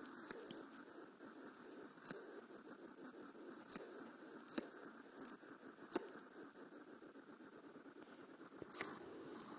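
A hedgehog huffing and hissing in defence, a steady fast crackly hiss, broken every second or two by a sharp click or pop, about six in all.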